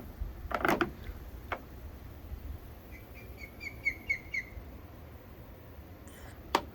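A small bird giving a quick run of about eight short chirps, lasting about a second and a half, midway through. A few brief knocks or clicks come before and after it.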